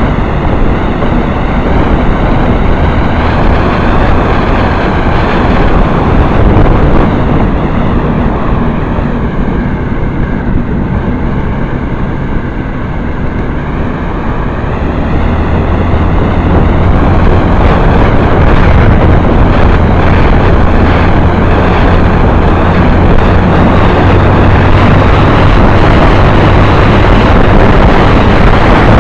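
Motorcycle engine running on the move, with heavy wind rush on the microphone. The sound eases for a few seconds near the middle, then builds again and holds loud.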